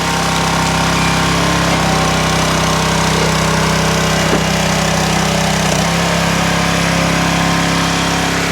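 Small engine of a log splitter running steadily, with a slight rise in pitch about six seconds in.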